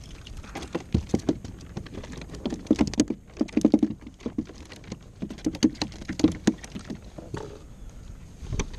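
Rapid, irregular knocks and taps on a kayak's hull, in two flurries about two and a half and five and a half seconds in.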